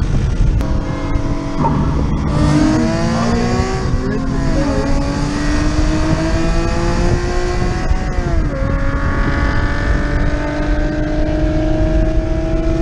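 Toyota Camry engine at full throttle from a rolling start, heard from inside the car. Its pitch climbs, drops sharply at an upshift about four and a half seconds in and again at about eight and a half seconds, then climbs once more. Heavy wind buffets the camera microphone the whole time.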